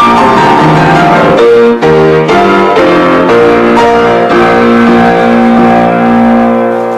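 Piano playing the closing bars of a romance in held chords, dying away near the end.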